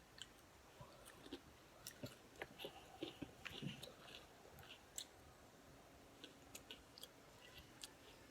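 Faint chewing of a snack: scattered soft clicks and mouth noises, busiest about three seconds in.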